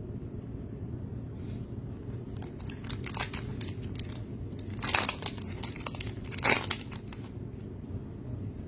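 Foil trading-card pack wrapper crinkling and tearing in several short bursts, loudest about three, five and six and a half seconds in, over a low steady hum.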